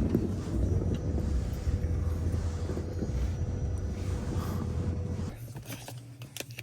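Pickup truck cab noise while driving: a steady low engine and road rumble with a faint steady whine. About five seconds in it drops away abruptly, leaving a few light clicks and knocks.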